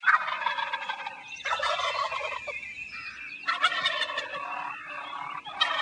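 A turkey gobbling, several rattling gobbles in a row with short gaps between them.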